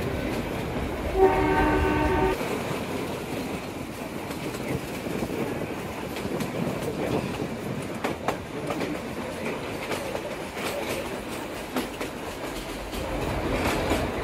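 Kalka–Shimla narrow-gauge train sounding its horn once, about a second in, for roughly a second. The coaches then run on with a steady rattling rumble and scattered clicks from the wheels on the track.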